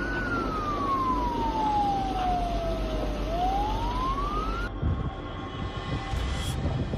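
Emergency vehicle siren wailing over a steady rushing background: one slow downward sweep, then a rise, cut off abruptly a little under five seconds in. A different noisy background follows.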